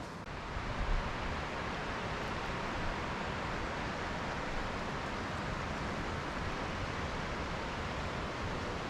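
Steady rushing of water, an even hiss with no rhythm or pitch.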